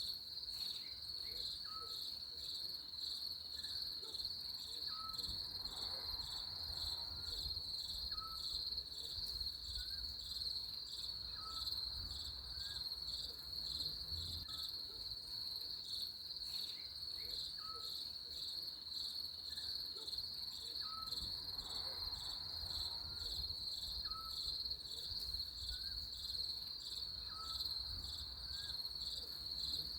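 A steady, pulsing high-pitched cricket chorus, with short faint chirps repeating every second or two beneath it.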